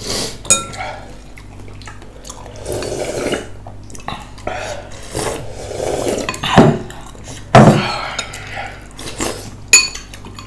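Eating utensils clinking and knocking against bowls and dishes during a meal, with a few sharp, loud clinks in the second half.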